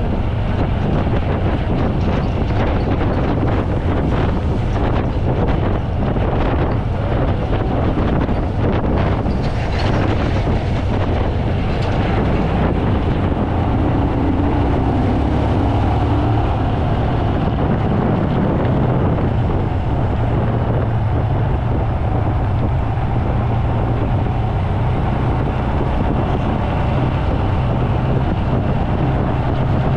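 Rain falling, over a steady low rumble, with gusts of wind on the microphone and scattered sharp patters, most of them in the first half.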